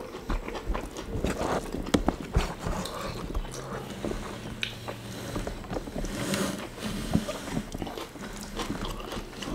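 Close-miked chewing of rice and fried food by two people eating with their hands: many short wet mouth smacks and clicks.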